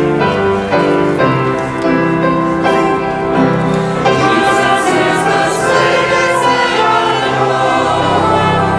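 Church choir singing a gospel chorus.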